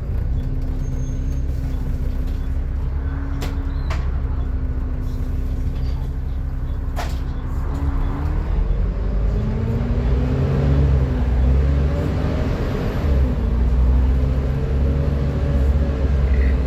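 Volvo B7TL bus engine running, with the loud hoover-like whine. It holds a steady note for about eight seconds, then its pitch rises and falls repeatedly as the bus pulls away and works up through the gears. A few short clicks sound in the first half.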